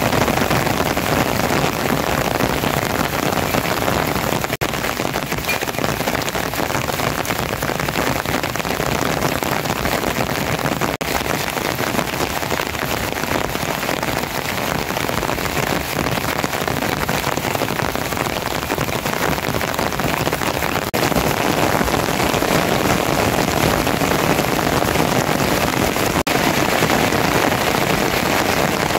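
Steady rain falling, a continuous even patter that grows a little louder about two-thirds of the way through.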